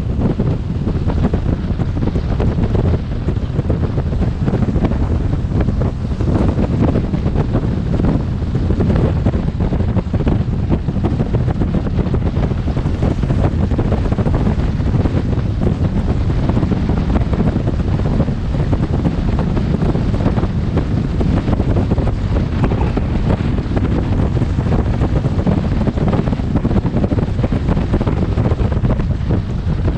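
Wind buffeting a motorcycle helmet camera's microphone while riding at speed: a steady, loud, low rush of noise.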